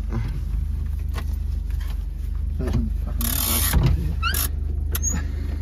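Holden EH's straight-six engine running steadily, heard from inside the car as a low, even rumble. A short rustle comes a little after three seconds in.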